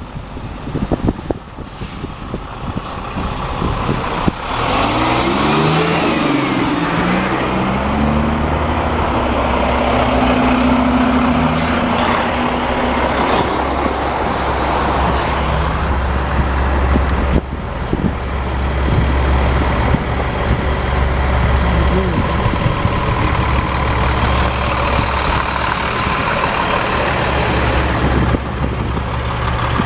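Heavy truck's diesel engine running close by, its pitch climbing and dropping back several times in the first few seconds as it shifts up through the gears, then settling into a steady low note.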